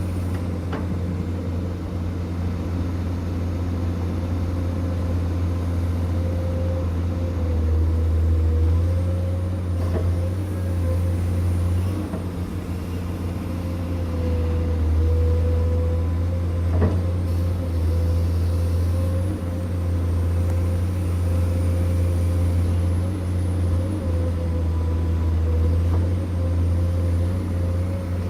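Heavy diesel construction machinery running steadily with a deep engine hum, its pitch shifting slightly now and then, and a few faint knocks.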